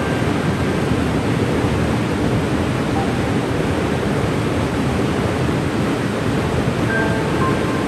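Cane River Falls, a waterfall, rushing in a steady, even roar of falling water.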